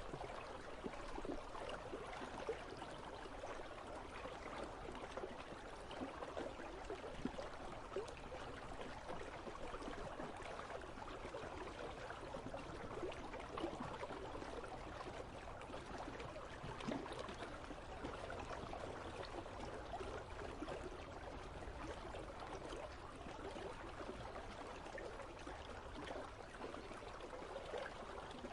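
River water flowing steadily, with a continuous trickling, bubbling wash.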